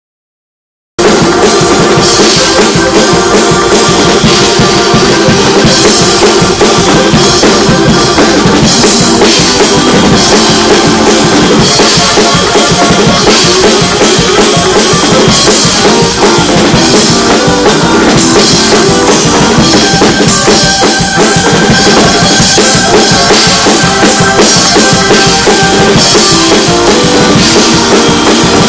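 Loud instrumental praise music led by a full drum kit with bass and snare drum, with sustained pitched notes above it, starting about a second in.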